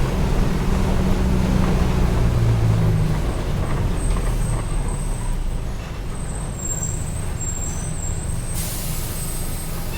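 Mercedes-Benz OF-1722M bus running, its engine easing off after about three seconds as the bus slows, with a short high hiss of air near the end.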